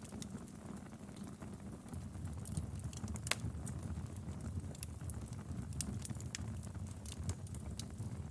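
Wood fire crackling, with scattered sharp pops and snaps over a steady low rumble of the flames; one louder pop a little over three seconds in.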